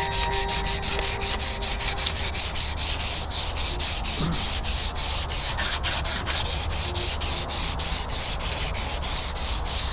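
Hand sanding on the bass boat's hull: sandpaper rubbed quickly back and forth in even strokes, about four to five a second, smoothing a missed spot before painting.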